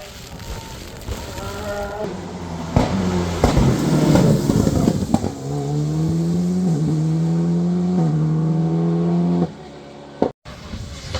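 Rally car engine accelerating hard, its pitch climbing in steps with a break at each of two upshifts, then falling away as the driver lifts off near the end. Before that comes a stretch of engine noise with sharp cracks. The sound drops out suddenly for a moment just before the end.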